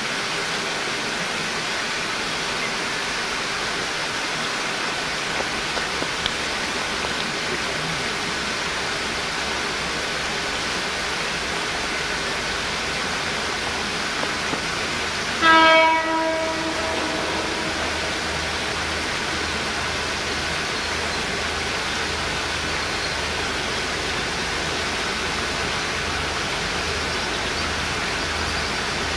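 Diesel locomotive horn sounding once, a single blast of about a second, over a steady outdoor hiss. A low rumble sets in after the horn.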